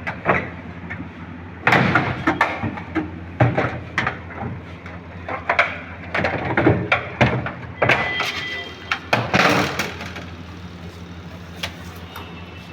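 Irregular knocks and clattering, as of hard parts being handled and set down, over a steady low hum. The knocks thin out near the end.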